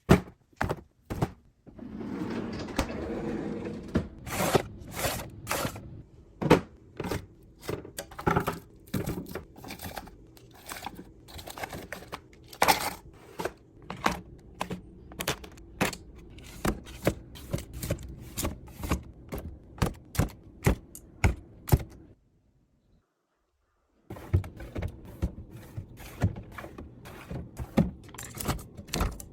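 Food packaging and plastic containers being handled and set down in a small room: a long run of irregular taps, clicks and knocks, with a rustling, crinkling stretch about two seconds in. The sound drops out completely for about two seconds near the end.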